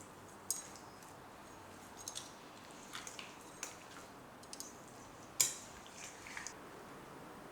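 Quiet kitchen handling sounds: a scatter of light clicks and taps of utensils and containers, the sharpest about five and a half seconds in, over a low room hiss.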